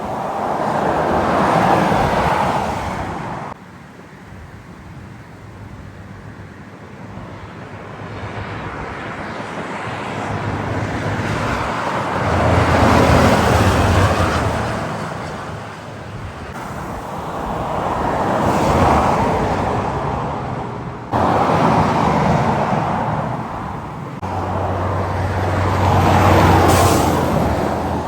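Heavy trucks passing one after another on a highway, each swelling and fading with a low engine drone and tyre noise, with abrupt jumps in the sound a few times.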